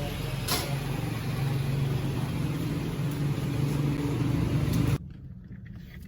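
A car engine running steadily with a low, even hum, which cuts off abruptly about five seconds in. There is a single sharp click about half a second in.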